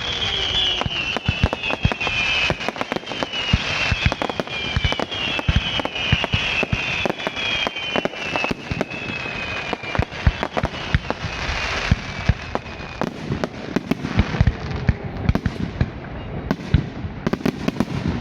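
Fireworks display: a dense run of bangs and crackling bursts, with high whistling tones that slowly fall in pitch through roughly the first two-thirds.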